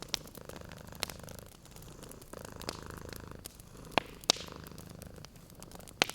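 Domestic cat purring in slow, even breath cycles, with a wood fire crackling over it: scattered sharp pops, the loudest two close together a little after the middle.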